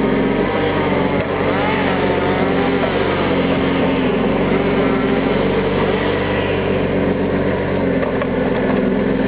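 Valtra T131h forestry tractor's diesel engine running steadily while loading logs, with a fainter whine that wavers up and down in pitch during the first few seconds.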